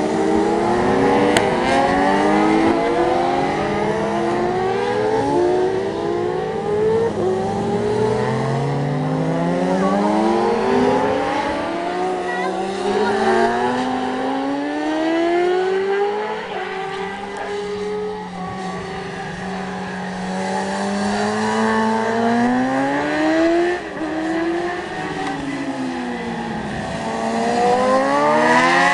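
Racing motorcycles out on the circuit, several engines at once revving hard: each pitch climbs, drops at a gear change and climbs again, overlapping throughout. One gets louder with a rising pitch near the end.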